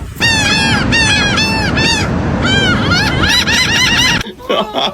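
Seagull giving its long call: a rapid series of arched, yelping calls, about four a second, in several runs over steady low noise, stopping abruptly about four seconds in.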